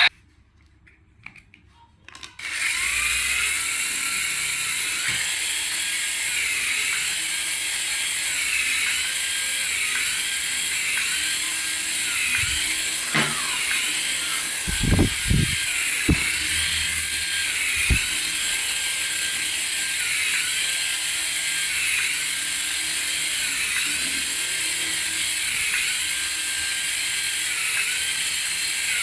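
Small battery toy's geared motor whirring steadily, starting after a short silence, with a faint cycle repeating about once a second. A few low knocks come about halfway through.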